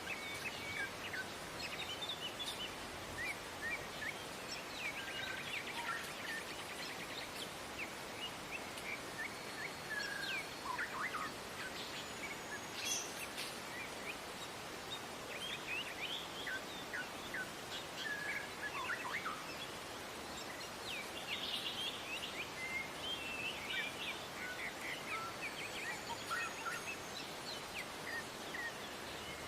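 Several wild birds calling with short, scattered chirps and call notes, over a steady background hiss.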